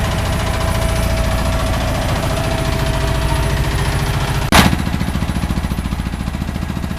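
Small boat engine running steadily with a rapid, even pulse. A single sharp knock comes about four and a half seconds in, after which the engine note changes.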